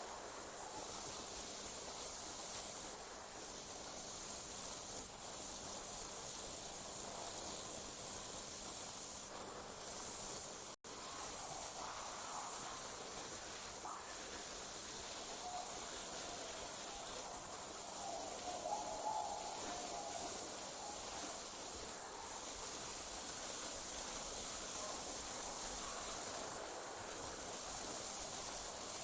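Night chorus of crickets trilling steadily at a high pitch, broken by short gaps every few seconds. About eleven seconds in, all sound drops out for an instant.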